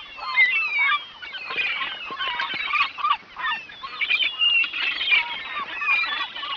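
A flock of waterfowl calling, many calls overlapping with no pause.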